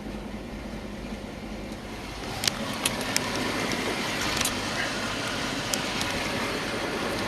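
The 5.0-litre V10 turbodiesel of a VW Touareg idling steadily, getting a little louder about two seconds in, with a few sharp clicks over it.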